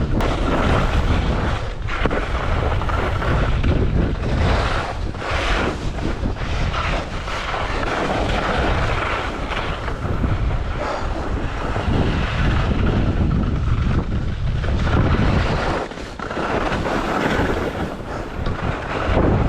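Rushing wind buffeting a camera microphone at skiing speed: a loud, gusting rumble and hiss that rises and falls.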